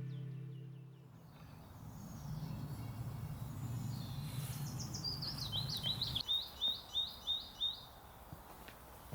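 Outdoor ambience in which a small songbird sings a quick run of about eight repeated high whistled notes, each dropping in pitch, from about five seconds in. A low rumble underlies the first half and stops suddenly about six seconds in, and the tail of background music ends about a second in.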